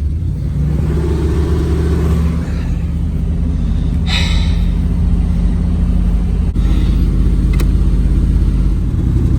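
1990 Buick LeSabre Estate wagon's carbureted 5.0 L V8 running at a steady, fast idle on a cold start. The high idle is held up by the choke and a stuck throttle, which the owner takes for part of the choke system. A brief hiss comes about four seconds in.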